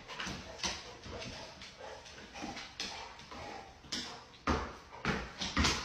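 A dog making small whimpering sounds, with several heavy thumps in the second half.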